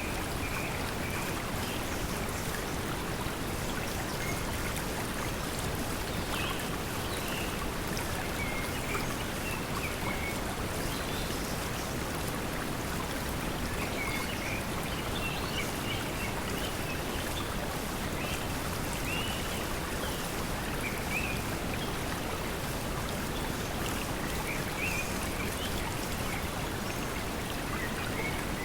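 Steady pink noise blended with flowing water, with short bird chirps now and then.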